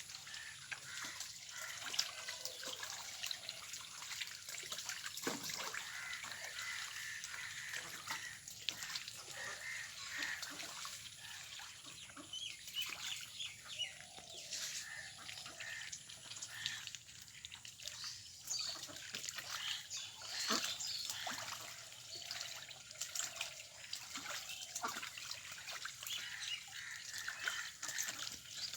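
Ducks dabbling and splashing in water, trickling and pattering continually, with short duck calls here and there.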